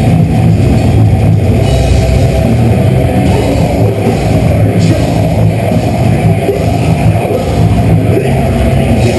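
Deathcore band playing live: heavily distorted guitars and drums in a dense, loud, bass-heavy wall of sound that sounds muffled, with little in the highs.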